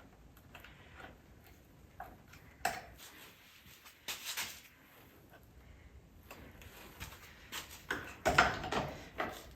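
Scattered clicks and knocks of ATV parts being handled and fitted by hand, with a louder run of clattering near the end.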